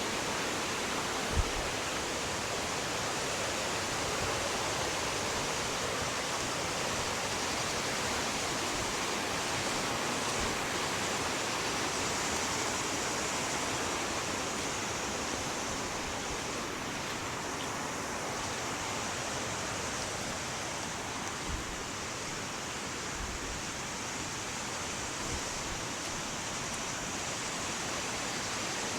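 Steady rush of a fast-flowing river, a dense, even noise of water. A few brief low thumps break through, the first about a second and a half in.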